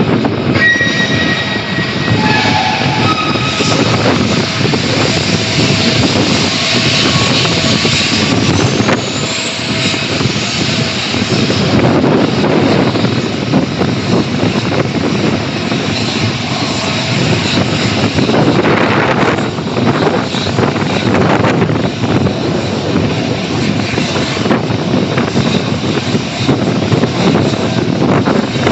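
Airliner jet engines running loud and steady through a long pass, with whining engine tones that drop in pitch over the first few seconds and a brief rising whine partway through.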